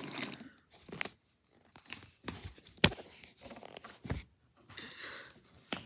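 Toys being handled: a few sharp clicks and knocks, the loudest about three seconds in, with soft rustling between them.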